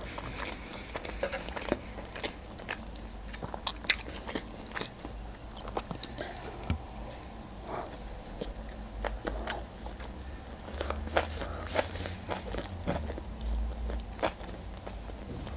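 Close-up chewing of a mouthful of sushi roll, with irregular wet mouth clicks and soft crunches. A faint low rumble runs underneath, a little stronger in the later part.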